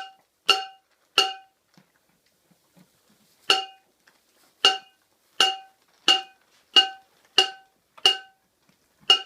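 Metal pan being banged, each hit a short ringing clang at the same clear pitch. Three hits, a pause of about two seconds, then a steady run of hits about every two-thirds of a second.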